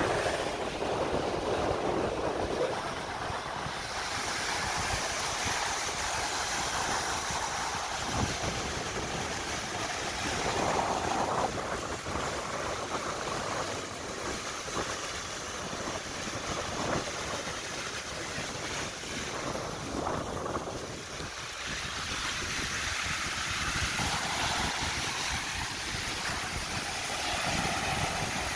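Sea waves washing onto a beach, a continuous rushing that swells and eases, with wind buffeting the microphone.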